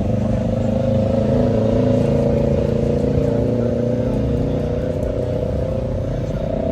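A motor vehicle engine running steadily, its pitch sagging slightly.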